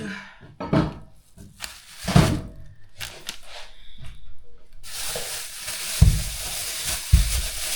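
A few knocks and clatters of kitchen handling, then about five seconds in a steady sizzle of food frying in a pan starts up, with two low thumps over it.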